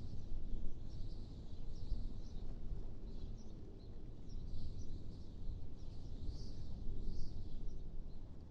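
Wind blowing with a steady low rumble, while small birds chirp in short, high calls scattered through it.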